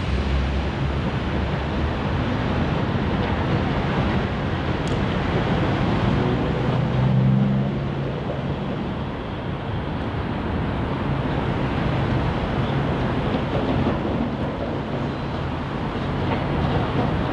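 Diesel locomotives working at the head of an Amtrak Superliner passenger train as it pulls away, a steady engine drone over the noise of the moving train.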